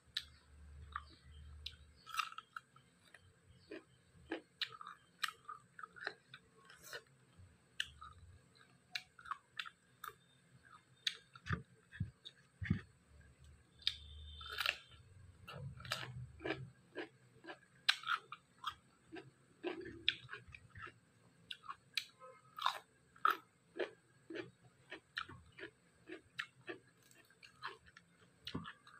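A person chewing and biting dry-fried pork, with many short, irregular mouth smacks and clicks.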